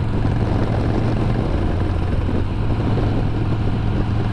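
Harley-Davidson Sportster 1200's air-cooled V-twin engine running steadily under way, with rushing wind noise over it.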